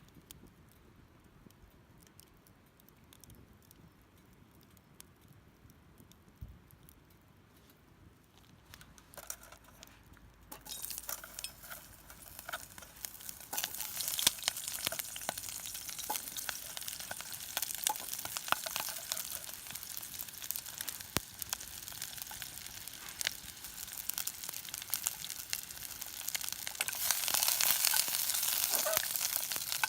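Food sizzling in a hot pan over the fire: a dense hiss with many small pops that comes in about ten seconds in and gets louder near the end. Before that there are only faint scattered clicks.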